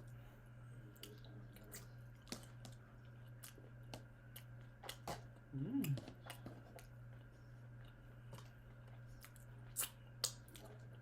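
Close-up eating sounds: chewing of stir-fried prawns with many small wet mouth clicks, a short voiced murmur about halfway through, and two sharper clicks near the end. A steady low hum runs underneath.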